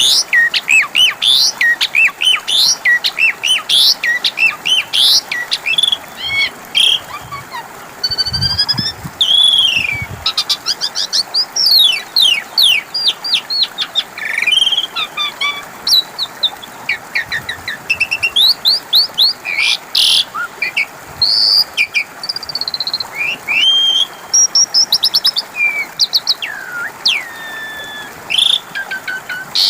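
Javan pied starling (jalak suren) singing: a fast, varied, almost unbroken string of sharp chirps, rising and falling whistles and rapid trills.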